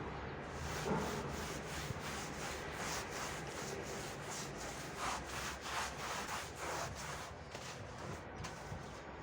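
Repeated scrubbing strokes rubbing against a surface during cleaning, coming quicker and closer together a little past halfway.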